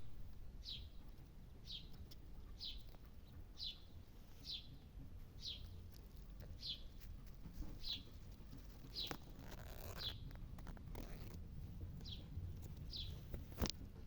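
A bird repeating a single short, high, falling call about once a second, with a sharp click near the end.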